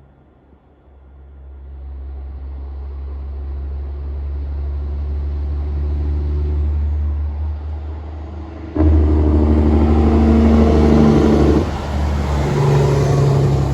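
Heavy diesel coal truck approaching with a low engine drone that grows steadily louder, then suddenly much louder about nine seconds in as it passes close by.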